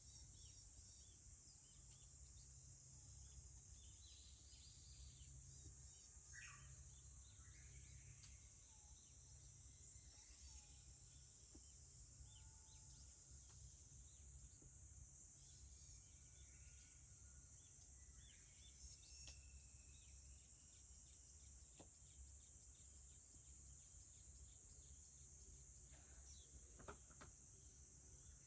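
Faint, steady, high-pitched insect drone with scattered bird chirps and calls over it, and a couple of sharp clicks near the end.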